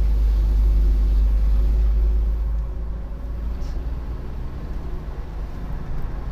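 Low rumble of a car driving on a road, with a faint steady engine tone; it grows quieter about two and a half seconds in.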